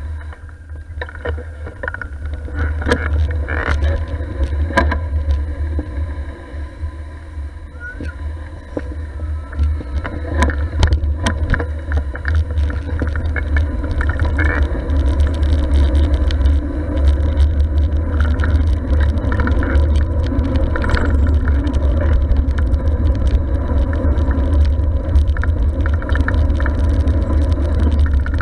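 Wind rumbling on an action camera's microphone while cycling, with scattered clicks and rattles from the bike.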